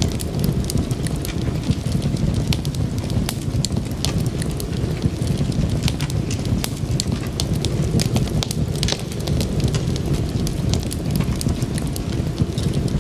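Wood fire crackling: frequent irregular sharp pops and snaps over a steady low rumble of the flames.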